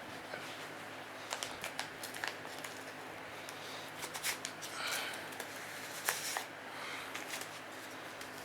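Scattered light clicks and short rustles and scrapes of objects being handled, the sharpest click about six seconds in, with a brief rasping rustle around the middle.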